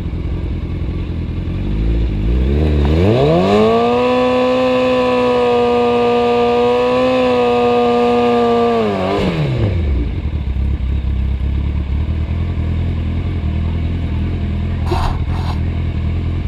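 Drag-racing motorcycle engine idling, then revved up about two seconds in and held at a steady high pitch for about five seconds before dropping back to a rumbling idle.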